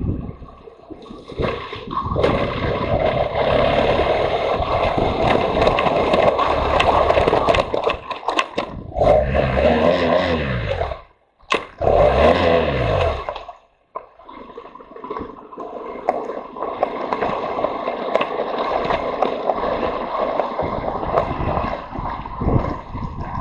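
Motorcycle on the move with wind buffeting the microphone, the engine revving up and back down twice around the middle.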